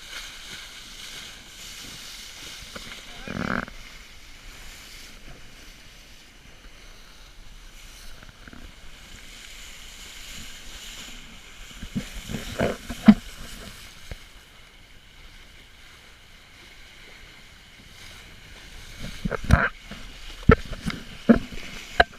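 Steady rush of wind and water on a sailboat under way, with a few sharp knocks about twelve seconds in and a cluster of them near the end.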